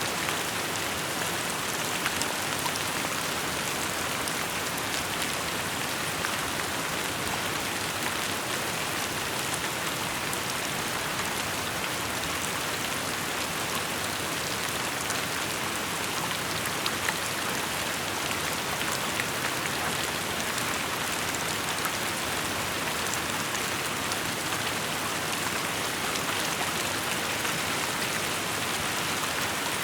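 Steady rainfall pattering on surfaces, an even hiss of rain with individual drops ticking through it.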